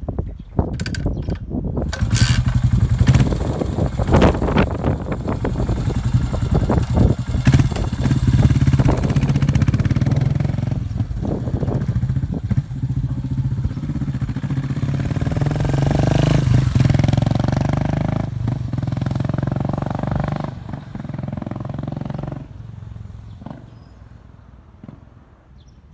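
Yamaha SR400's air-cooled single-cylinder four-stroke engine running through a New Gate SR-VCT Type S aftermarket muffler, a steady low exhaust beat, with some sharp clatter in the first couple of seconds. The sound fades away over the last few seconds, as the bike moves off.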